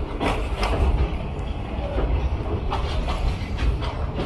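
Passenger train running on the rails, heard from aboard: a steady heavy low rumble with irregular knocks of the wheels over rail joints.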